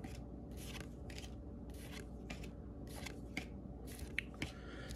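Stack of Donruss basketball trading cards being flipped through by hand, each card sliding off the next with a soft swish, about two a second, with a couple of sharper card clicks near the end.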